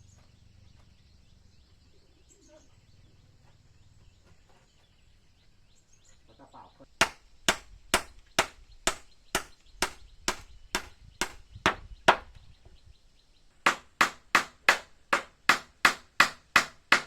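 Repeated sharp strikes at an even pace: about eleven at roughly two a second, then after a short pause about nine more, slightly faster.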